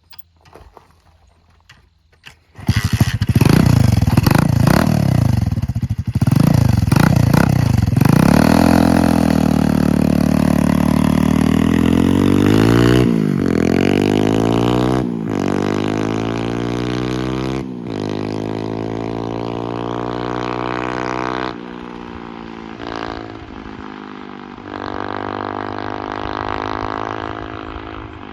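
125cc Lifan single-cylinder four-stroke mini bike engine with a custom exhaust, coming in suddenly after a couple of quiet seconds and revved up and down several times. It then pulls away through the gears, the pitch climbing in each gear and dropping at each shift, growing quieter in the later part.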